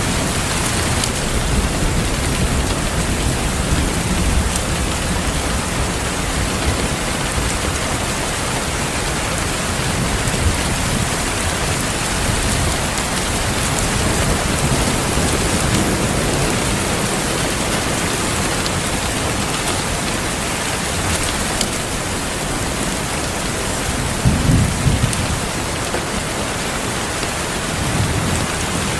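Steady heavy rain with thunder rumbling low in the background, swelling and fading several times, and one louder roll of thunder late on.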